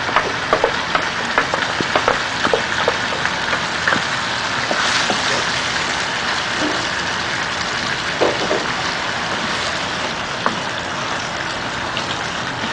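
Chicken pieces and a blended onion, tomato and yogurt paste sizzling in hot oil in a pan: a steady hiss with scattered light clicks from a stirring utensil.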